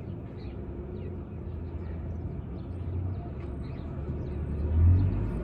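Low steady rumble of traffic that swells near the end, as a vehicle passes, with faint scattered bird chirps over it.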